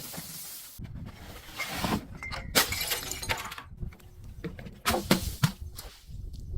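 Glass being crushed and breaking: a run of sharp cracks and crunches, bunched about two to three seconds in and again about five seconds in.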